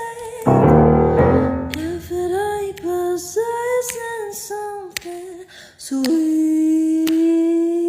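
A woman singing a melody over electric keyboard chords, with sharp clicks of long fingernails striking the keys. A loud low chord sounds about half a second in, and a long held note starts about six seconds in.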